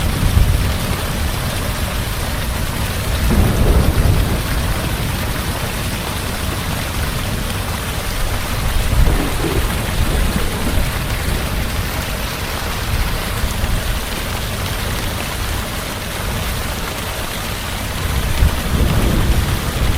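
Heavy rain falling steadily with a constant hiss, under low rolling thunder that swells three times: a few seconds in, about halfway, and near the end.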